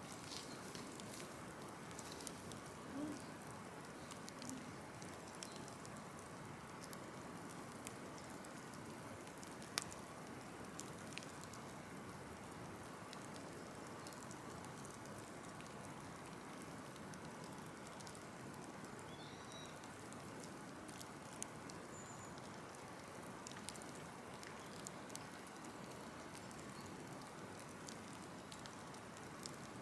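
Large open burn pile of cut trees and brush crackling as it burns down: a steady soft hiss with scattered sharp pops and snaps, one louder pop about ten seconds in.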